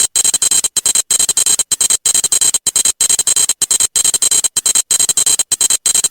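Kamen Rider Geats Desire Driver with the Command Twin Buckle playing its electronic standby loop: a stuttering synthesized noise with a steady high whine, chopped into short pulses about four times a second.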